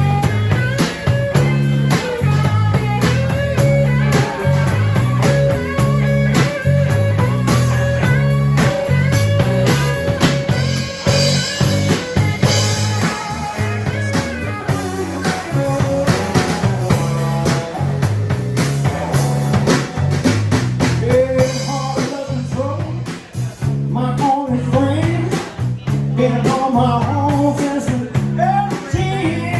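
Blues band playing an instrumental passage: electric guitar lines over bass and a drum kit.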